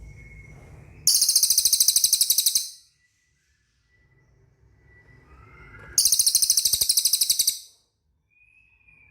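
A songbird singing two loud, high-pitched rapid trills, each about a second and a half long, with a pause of a few seconds between them.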